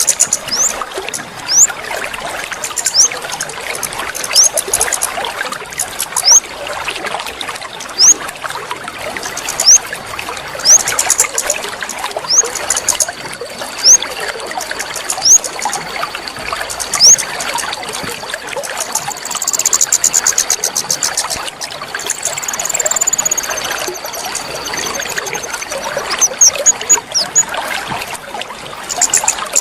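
Water trickling steadily, a bird-keepers' 'water therapy' sound meant to coax a silent bird into singing. Over it a bird gives short rising chirps about every second and a half, with a steady high thin tone through the middle part and a brief falling warble past the middle.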